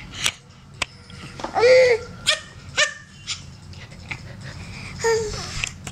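A 10-month-old baby making short, high-pitched, bark-like squealing calls in a string. The longest and loudest comes about one and a half seconds in, and another comes near the end.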